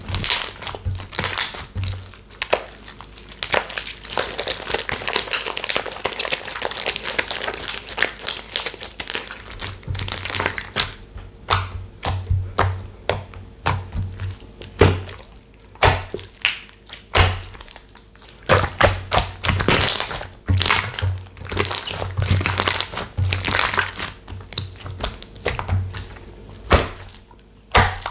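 Textured slime being squeezed, pressed and poked by hand, giving a dense run of crackling clicks and pops with soft low thuds.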